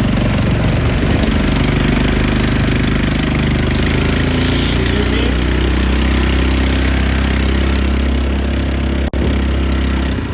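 Quad bike engine running steadily, with a brief dropout about nine seconds in.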